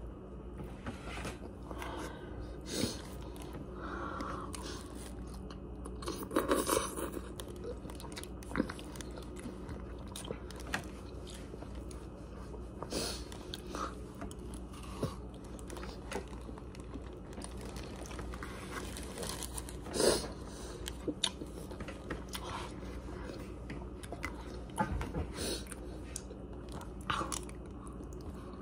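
Close-up chewing and mouth sounds of someone eating rice, chicken and vegetables from a fork, with scattered short clicks and knocks; the loudest comes about twenty seconds in.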